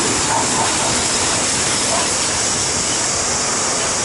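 Steady rush and rumble of a moving passenger train heard from inside the carriage at an open window: wheels running on the rails mixed with the hiss of air going past.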